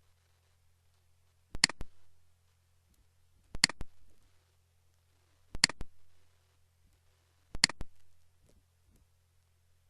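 Computer mouse clicking: a short cluster of sharp clicks about every two seconds, four times, over a faint steady low hum.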